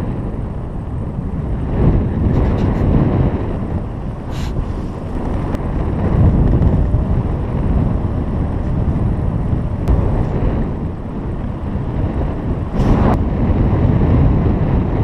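Wind buffeting the microphone during a paraglider flight: a steady low rumble that swells and eases, with two brief hissy gusts, about four seconds in and near the end.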